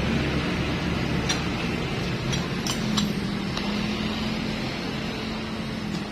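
Light metallic clinks of engine parts and tools being handled during motorcycle engine assembly, about five or six sharp ticks spread over a few seconds, over a steady background hum whose low rumble fades away in the first second.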